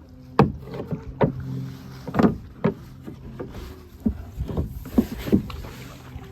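Irregular knocks and clunks on a canoe's hull, eight or so in a few seconds, as it is worked through a tangle of logs and branches.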